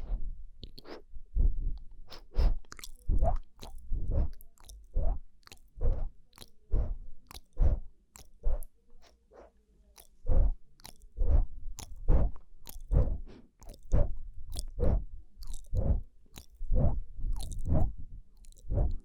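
Close-miked ASMR mouth sounds: wet clicks and smacks of the lips and tongue, about one or two a second, with a short lull about halfway through.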